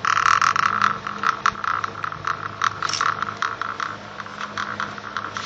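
Samsung FMA 702CY rotary compressor motor, dome cut open, switched on with a shorted winding. It sets up a loud, irregular electrical crackling that starts suddenly. The motor is believed to be running on its start winding alone.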